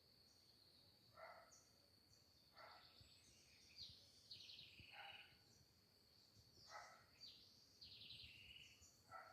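Faint birdsong over a steady high insect drone. Several short calls repeat every one to two seconds, mixed with a few higher buzzy trills.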